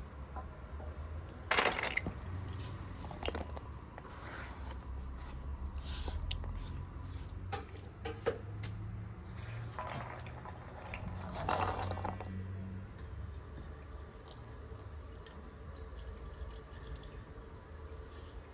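Dishes and cooking utensils being handled during food preparation: a handful of short clatters and scrapes, the loudest a little under two seconds in and about two-thirds through, over a low steady rumble.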